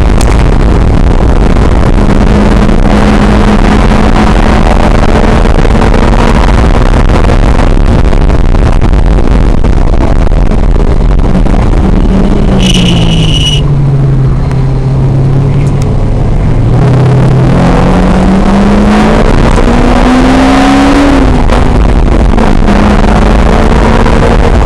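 Lotus sports car's engine heard from the open cockpit under heavy wind noise: it runs at a steady pitch, drops as the car slows about halfway through, then climbs again through the gears with a shift near the end. A brief high beep sounds about halfway through.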